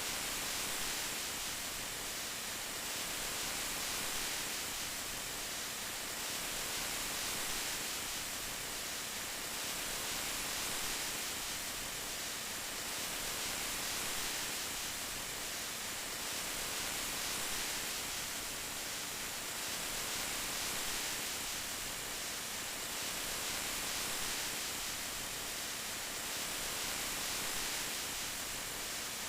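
Steady rain falling, an even hiss with a gentle swell about every three and a half seconds.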